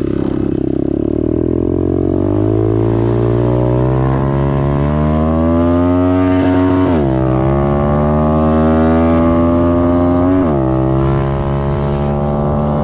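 Small dirt bike engine accelerating through the gears: the pitch climbs, drops sharply at an upshift about seven seconds in, climbs again and drops at a second upshift about ten and a half seconds in, then runs steady.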